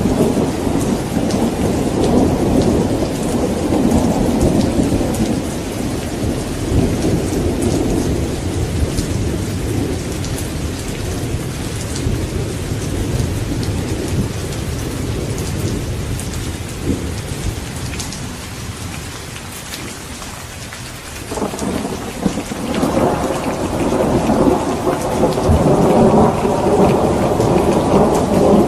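Steady heavy rain with rolling thunder. The rumble fades away over the first twenty seconds, and a new roll of thunder breaks in about three-quarters of the way through, growing louder toward the end.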